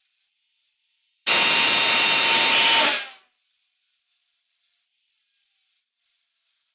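Angle grinder grinding metal in one burst of about two seconds, then winding down, used to grind the heads off the fasteners holding the old leaf-spring hanger. Near silence before and after the burst.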